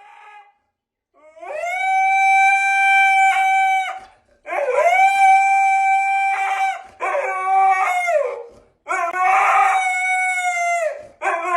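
A dog howling: four long howls held at a steady pitch, each lasting a couple of seconds with short breaths between, and a fifth starting at the end.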